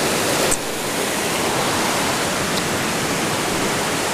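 Steady, continuous rush of the Devils Track River's flowing water, with a brief click about half a second in.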